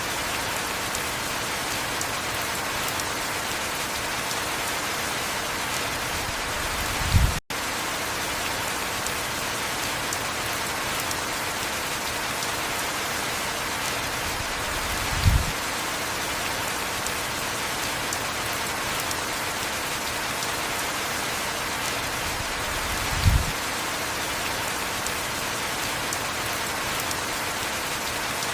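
Heavy rain falling steadily. A short low thud comes three times, about eight seconds apart, and the sound cuts out for an instant just after the first one.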